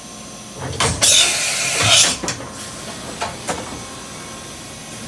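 Matsuura H Plus 300 horizontal machining center cycling: a thump, then a loud hiss of compressed air for about a second, followed by a few sharp clicks and knocks, over a steady machine hum.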